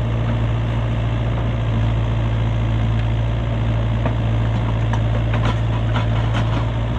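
Heavy diesel engine idling steadily, with a few faint metallic clicks near the middle and toward the end.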